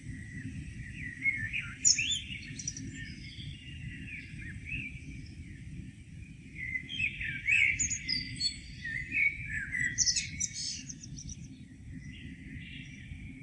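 Several songbirds chirping and singing in a morning chorus, with two busier bouts about a second in and again from about seven to eleven seconds in, over a steady low rumble.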